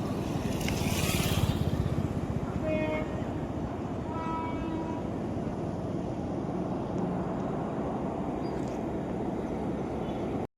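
Steady low rumble of railway-yard background noise, with a hissing swell about a second in and short horn notes around three and four seconds in.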